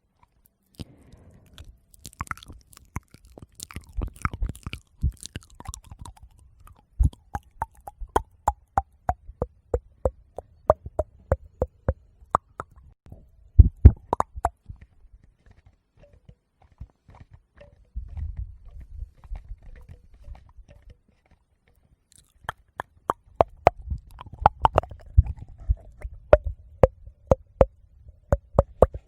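Close-miked ASMR mouth sounds: wet tongue and lip clicks in quick runs of a few a second, in two stretches with a quieter gap in the middle, over a low rumble of air on the microphone.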